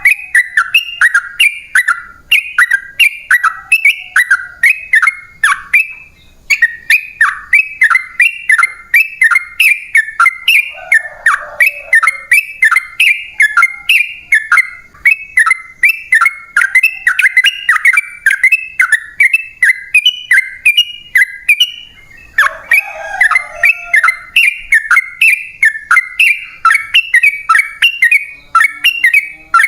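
Yellow-vented bulbul (trucukan) singing a long rapid run of loud, bubbling notes, about three or four a second, pausing briefly twice.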